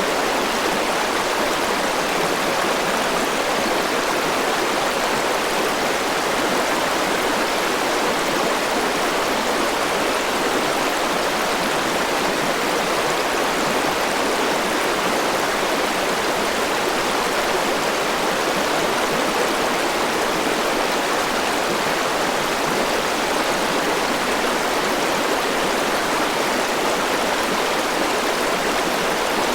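A rushing forest river, its water flowing over rocks in a steady, even rush with no change in level.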